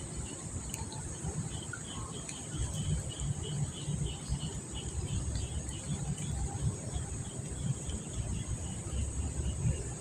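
Insects chirping in a quick pulsing rhythm over a steady high buzz, with an uneven low rumble underneath.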